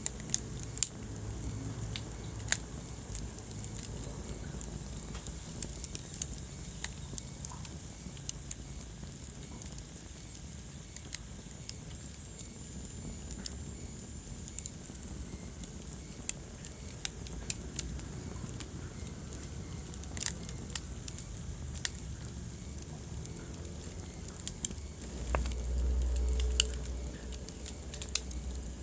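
Wood fire crackling in a fireplace, with irregular sharp pops over a steady low rumble of burning. About 25 seconds in, the low rumble swells louder for a couple of seconds.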